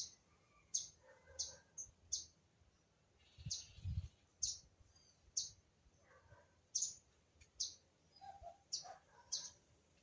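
A small bird calling: about a dozen short, high chirps at irregular intervals, roughly one or two a second. There is a brief low thump about four seconds in.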